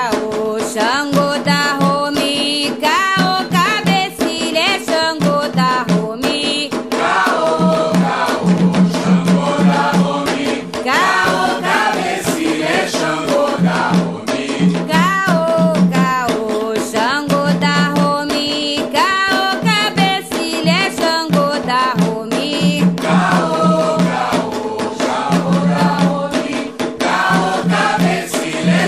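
Candomblé chanting for Xangô: singing voices with bending melodic lines over drums and dense, rapid percussion strokes.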